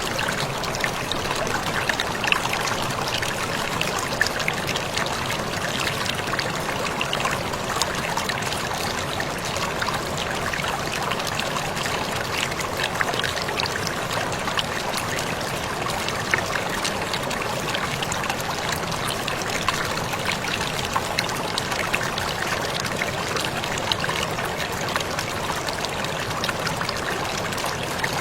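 Waterfall splashing steadily, with many small sharp splashes of droplets over the constant rush of water.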